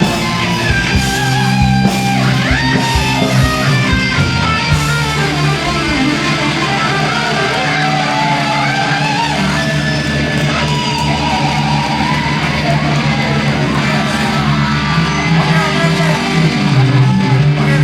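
Live rock band playing: electric guitars over bass, with drum hits in the first few seconds.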